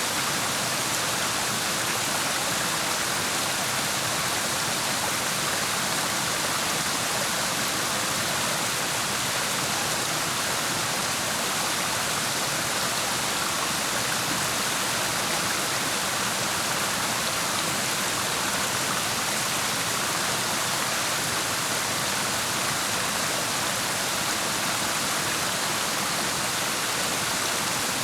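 Clear mountain stream water rushing steadily over rocks, an even hiss that does not change.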